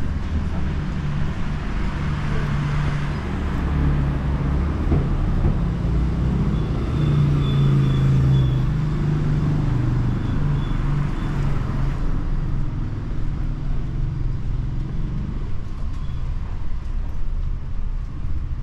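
Street traffic with a motor vehicle's engine running close by, its low rumble building to loudest about halfway through and then easing off.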